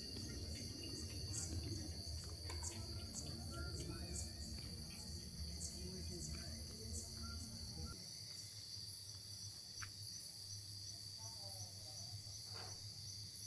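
Insect chorus with a steady high-pitched trill and faster ticking above it. A low hum runs underneath and drops away about eight seconds in.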